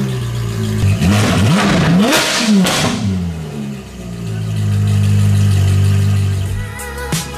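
Ferrari 458 Speciale's naturally aspirated V8, fitted with a decat iPE titanium exhaust, is revved in several quick blips, its pitch rising and falling. It then runs at a steady speed for a couple of seconds. Music cuts in near the end.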